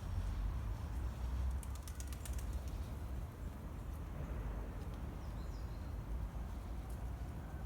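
Outdoor courtyard ambience: a steady low rumble, a quick run of faint clicks about two seconds in, and a brief bird chirp midway.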